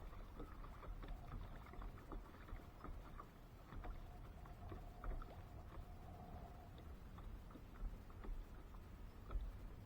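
Kayak on the water: low water and wind noise with small scattered knocks and clicks against the hull. A faint steady hum runs for a few seconds in the middle.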